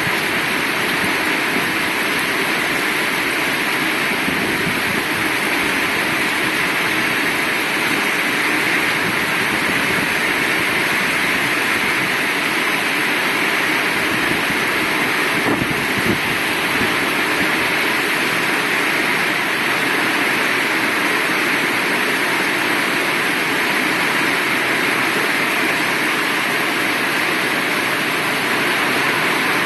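Heavy rain falling steadily, an even wash of noise with no break.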